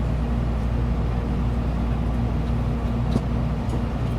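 Shinkansen bullet train running, heard from inside the passenger cabin: a steady low rumble and hiss with a faint steady hum. There is a light click about three seconds in.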